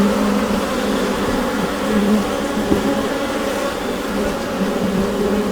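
Honeybee colony buzzing inside the hive: a dense, steady hum of many wingbeats, pitched around 200 Hz with overtones above.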